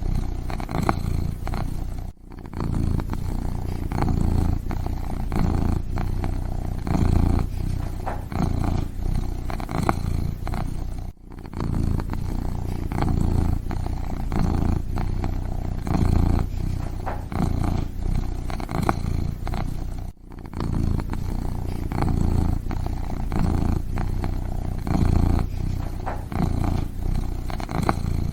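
Kitten purring close up, a steady low rumble that swells and eases about once a second. It has three brief breaks.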